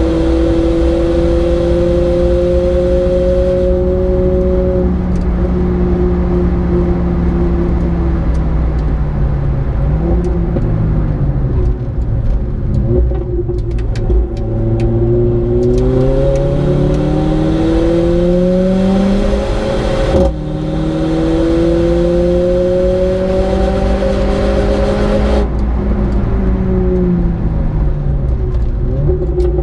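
Mercedes-AMG A 45's turbocharged 2.0-litre four-cylinder heard from inside the cabin under track driving. It holds high revs in fifth gear, drops in pitch as the car brakes and downshifts into third, then climbs again under full acceleration with a quick upshift into fourth about twenty seconds in. The pitch falls again near the end as the car slows for the next corner.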